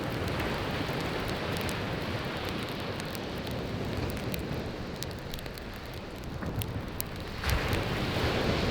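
Wood fire crackling with many sharp pops over the steady wash of sea waves breaking on the shore; a wave surges in louder about seven and a half seconds in.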